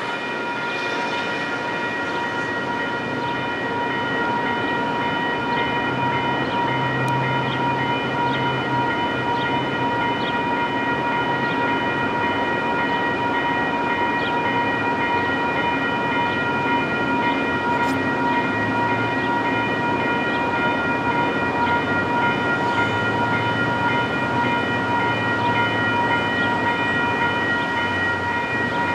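Railroad grade crossing warning bell ringing steadily, struck about once a second, with a low rumble underneath.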